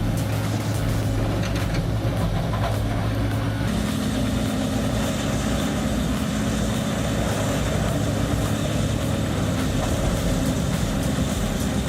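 Bandit Beast 4680 horizontal wood grinder running under load, its engine giving a steady drone with scattered knocks in the first few seconds. About four seconds in, the drone changes abruptly to a higher, steadier hum.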